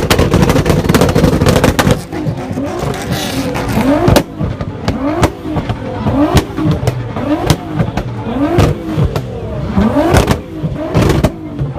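A car engine being revved over and over, about once a second, each rev rising in pitch and ending in a sharp crack.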